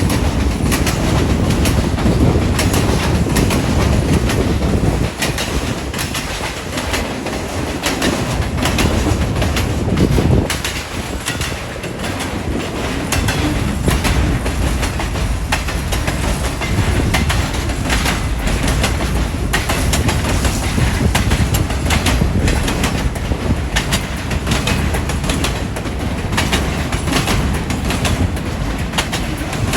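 A long train's cars rolling past, wheels clicking steadily over the rail joints over a heavy low rumble, with wind buffeting the microphone.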